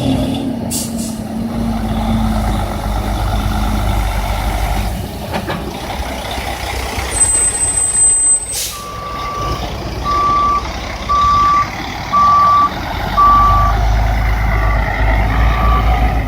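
Dump truck diesel engine running. About halfway in comes a short air-brake hiss, then the reversing beeper sounds about once a second as the truck backs up, growing fainter near the end.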